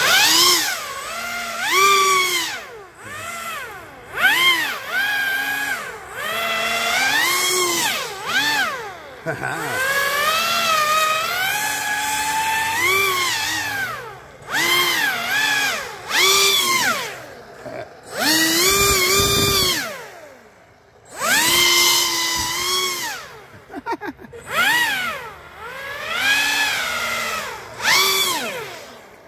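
Pro Boat Aerotrooper RC airboat on a 4S battery, its brushless motor and air propeller whining as the throttle is worked, revving up and down over and over. The whine drops almost to a stop about two-thirds of the way through, then picks up again.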